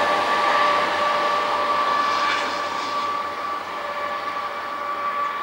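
ATR 220 diesel railcar running away from the level crossing, its rolling noise steadily fading, under a steady high ringing tone.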